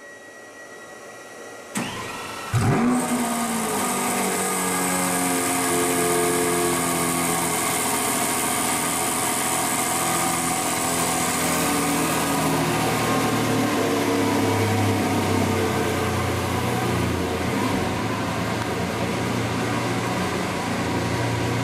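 Lamborghini Veneno Roadster's V12 starting up: a click, then a short crank and a loud bark about two and a half seconds in as it catches, after which it settles into a steady idle that drops a little in pitch over the next few seconds.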